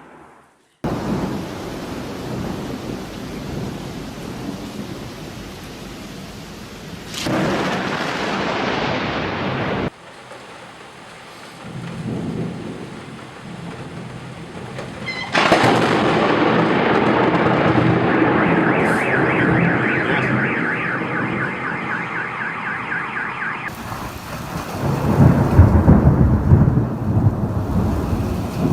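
Thunderstorm sounds across several short clips: steady rain and wind noise with rolls of thunder, the loudest and deepest rumble coming near the end.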